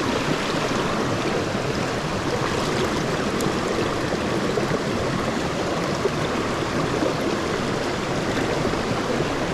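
A small moorland stream rushing and babbling over rocks, a steady wash of running water.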